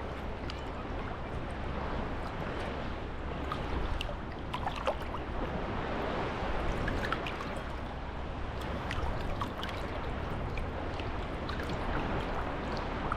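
Small sea waves washing gently on a beach, swelling and easing, with water trickling and fizzing at the shoreline in many tiny ticks.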